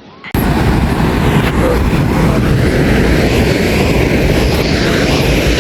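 Wind buffeting the microphone at the beach: a loud, rough, steady rush that starts suddenly about a third of a second in.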